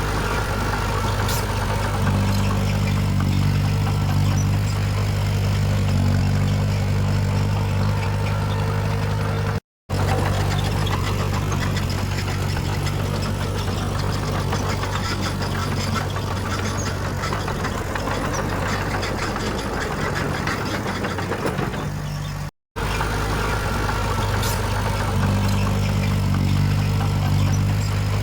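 Heavy diesel engine of earthmoving machinery running steadily with a low, even drone. The sound drops out for an instant twice.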